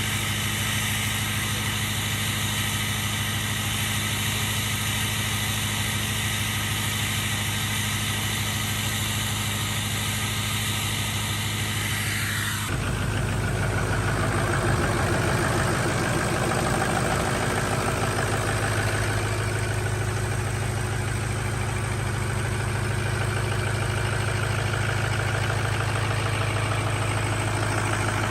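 Diesel pickup truck engine idling steadily after a cold start. About halfway through, the sound changes abruptly in tone and gets a little louder, then the idle carries on.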